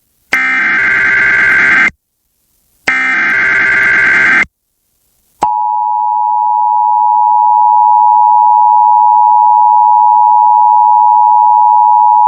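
Emergency Alert System broadcast tones. Two bursts of the buzzing digital SAME header data, each about a second and a half long, are followed about five seconds in by the steady, harsh two-tone EAS attention signal, which announces that an emergency warning is about to be read.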